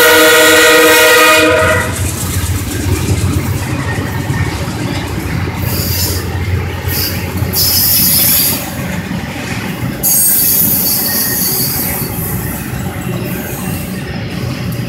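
CSX diesel freight locomotive's air horn sounding a loud chord, cutting off about a second and a half in. Then a string of autorack cars rolls past with a steady rumble of wheels on rail, broken by high-pitched wheel squeals that come and go twice.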